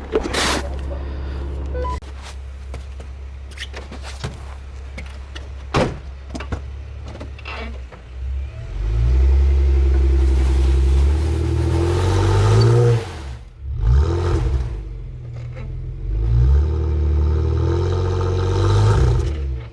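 2015 Jeep Wrangler Unlimited's V6 engine revving in two long bursts in the second half, the pitch rising and falling, while the Jeep is stuck in snow. A few knocks and clatters come in the first half over a low steady hum.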